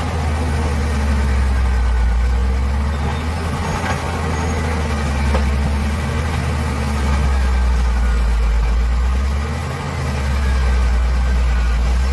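Bulldozer's diesel engine running steadily with a deep, low sound, easing off briefly about ten seconds in and then picking up again.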